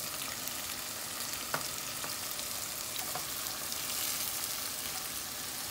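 Onions frying in olive oil in a pot, a steady sizzle, as chopped tomatoes and green chilies are slid in from a plate. A few light clicks sound over the sizzle.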